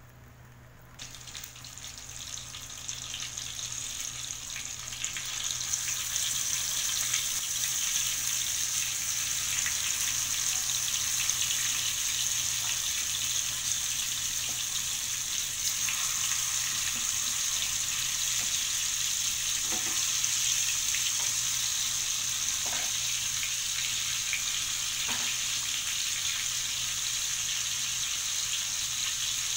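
Oil sizzling in a frying pan as masala-coated snake gourd pieces are shallow-fried to half-cook them. The sizzle starts about a second in, grows over the next few seconds as more pieces go in, and then holds steady, with a few faint knocks.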